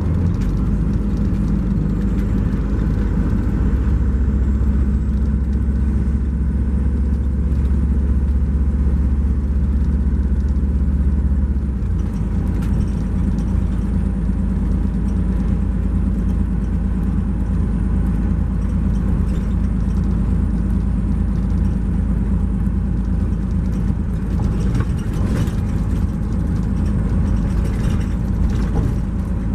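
Cummins ISX12 diesel engine and Allison automatic transmission of an MCI J4500 coach heard from inside the coach while it is driving: a heavy, steady low drone that drops off about twelve seconds in, with a faint high whine above it.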